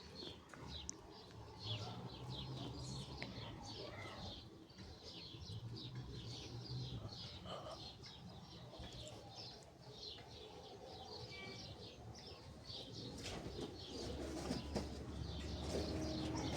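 Many small birds chirping in quick, overlapping calls. Near the end a low rumble comes in and grows louder.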